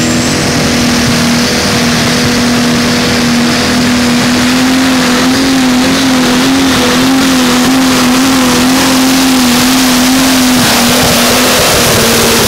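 Pro Stock pulling tractor's turbocharged diesel engine held at full throttle during a pull: a loud, steady high drone that wavers in pitch through the middle and eases off near the end.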